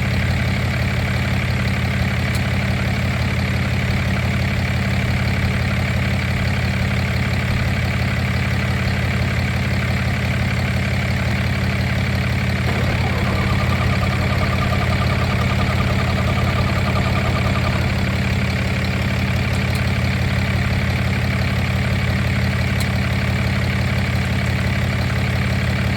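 A vehicle engine idling steadily, with an even low hum. A faint higher whine joins it for a few seconds near the middle.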